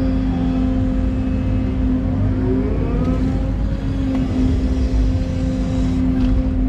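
Hydraulic excavator's diesel engine running steadily under load, with a few rising hydraulic whines about two to three seconds in.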